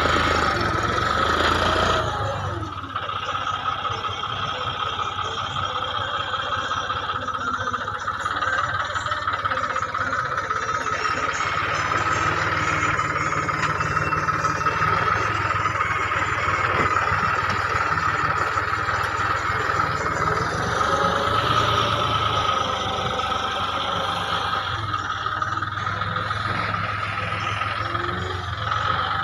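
John Deere tractor's diesel engine running steadily, with a steady high whine over the engine note.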